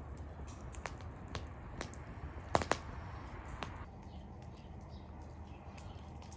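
Firewood burning in a fire pit, crackling with scattered sharp pops, the loudest a quick pair about two and a half seconds in, over a steady low rumble.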